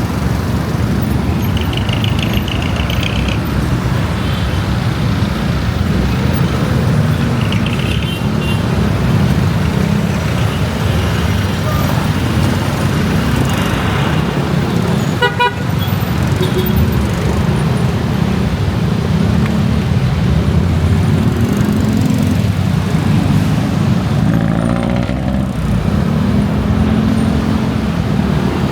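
Riding on a motorcycle in city traffic: a steady low rumble of wind and engine, with short horn toots from nearby vehicles about two seconds in and again about eight seconds in.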